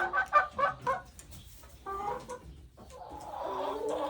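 Hens clucking: a quick string of short clucks in the first second, another brief call about two seconds in, then a longer drawn-out call near the end.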